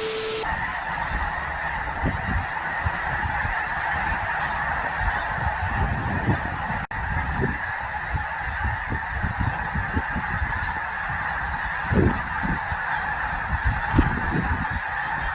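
A large flock of birds calling all at once in a dense, continuous chorus, with irregular low rumbles and thumps underneath.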